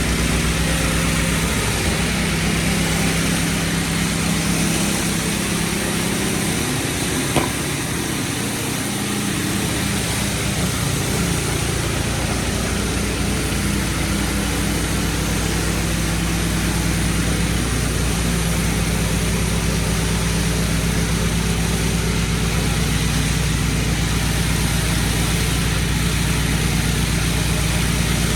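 Gas-engine pressure washer running steadily under load, with the hiss of its high-pressure spray. There is a sharp click about seven seconds in.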